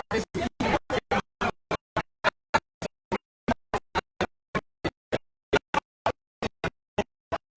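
Audio breaking up into a stutter of short clipped fragments, about three to four a second, with dead silence between them, typical of a broken or dropping signal. The fragments thin out and stop near the end.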